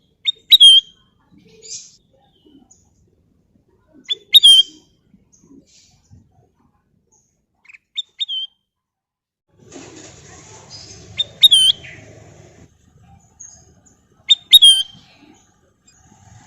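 A kutilang emas, a bulbul, gives short, sharp whistled chirps, each a quick pair or triplet, about every three to four seconds. A rustling or fluttering noise comes in about ten seconds in and lasts a couple of seconds.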